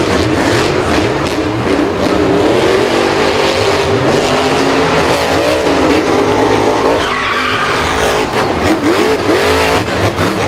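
Several vehicle engines revving up and down over one another, with tyres skidding and squealing, as in a race.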